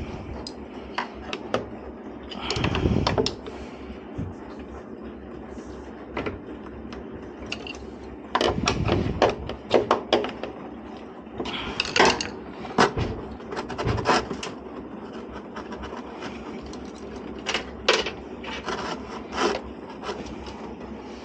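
Scraping, rubbing and knocking as a stuck heater element is worked loose and pulled out of its rubber seal in a washing machine tub. The sound is scattered clicks with several louder bursts of scraping.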